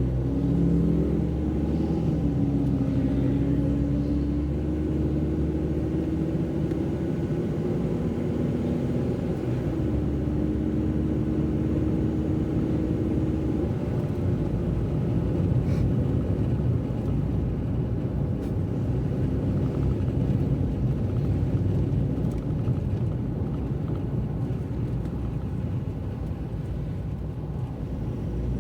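A car driving on a wet road: a steady low engine hum under tyre noise. The loudness rises sharply at the start and the engine note climbs gradually over the next several seconds as the car gathers speed.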